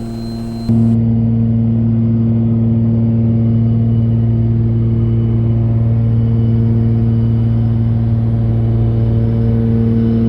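Cabin drone of a Cessna 414A's two turbocharged piston engines and propellers in cruise, a steady, even hum. It gets abruptly louder about a second in.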